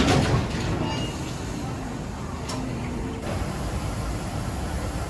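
Low, steady rumble of a train in motion, with a brief faint squeal about a second in.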